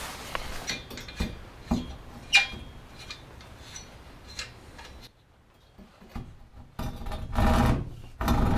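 Rubbing and scraping with scattered knocks and clicks, a short quiet pause, then a loud rough scraping near the end.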